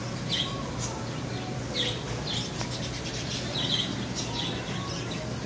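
Bird chirps: about six short, falling chirps at irregular intervals over a steady low hum.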